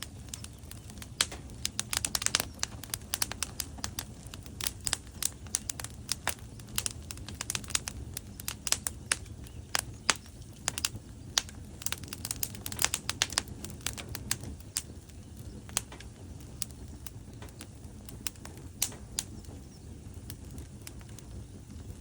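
Wood fire burning in a fireplace: logs crackling and popping in quick, irregular snaps over a low, steady rumble of flame. The snaps come thickest in the first half and thin out later.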